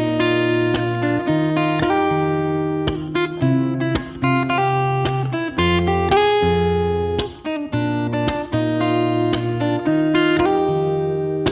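Background music: acoustic guitar strummed and plucked, with chords changing about every second.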